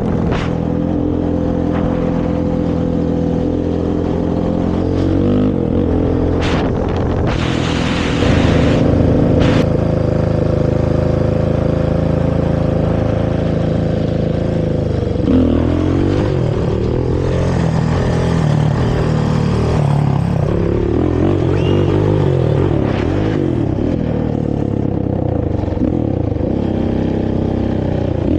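Honda TRX450 quad's single-cylinder four-stroke engine through its stock exhaust, held at steady speed for long stretches, then revved up and down repeatedly from about halfway through. A few short sharp noises come through in the first third.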